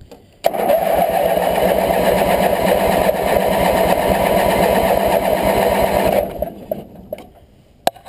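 Craftsman GT18 garden tractor's Briggs & Stratton V-twin engine on a cold start. It comes on suddenly about half a second in, sounds steadily for about six seconds, then stops abruptly.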